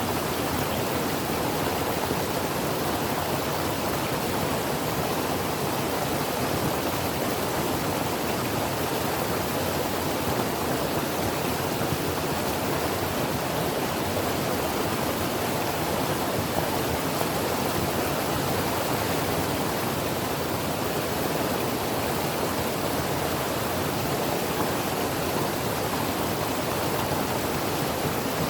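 Mountain creek water flowing over rocks: a steady, even rush with no breaks.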